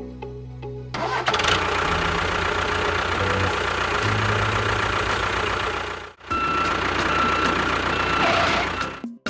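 Engine running with a rough, steady noise, after a low hum in the first second; it cuts out for a moment about six seconds in, then runs again until just before the end.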